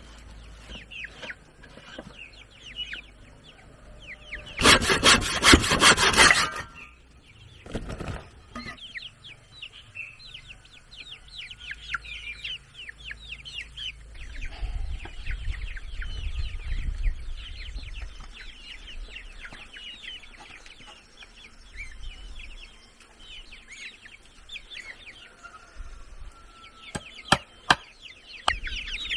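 A saw cutting wood: a loud rasping run of strokes lasting about two seconds, then a brief second cut. Birds chirp and chickens cluck throughout, with a few sharp knocks near the end.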